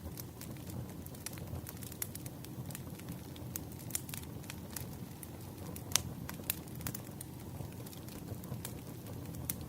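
Firewood burning in a campfire: a steady low rumble of flames with frequent sharp crackles and pops, the loudest pop about six seconds in.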